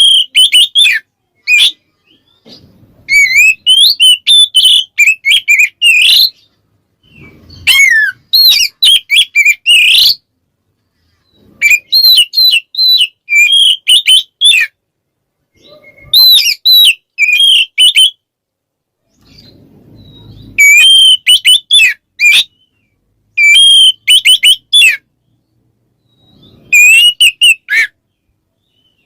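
Oriental magpie-robin (kacer) singing loud 'ngeplong' song: phrases of quick whistled notes and trills, each lasting one to three seconds, with short pauses between. It is a challenging song that calls out rival males.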